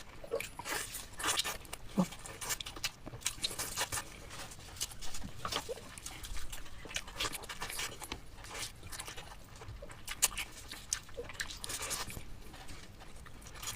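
Close-miked eating sounds: chewing with irregular wet clicks and lip smacks.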